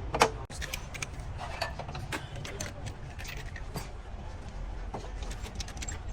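Metal tools and parts clinking and tapping as they are handled, in scattered sharp clicks with the loudest one just after the start, over a steady low rumble.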